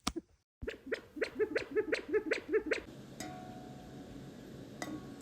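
California quail calling: one sharp note, then a quick run of about a dozen short chattering notes over two seconds that stops abruptly.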